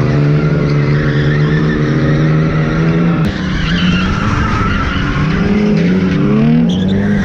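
BMW E36 straight-six engine held high in the revs through a tandem drift, with tyres skidding; in the last few seconds the revs dip and climb again several times as the driver works the throttle.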